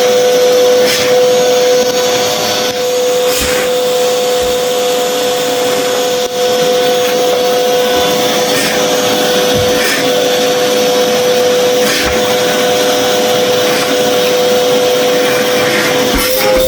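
Henry canister vacuum cleaner running steadily, its motor giving a constant whine over the rush of air, with a few light knocks along the way.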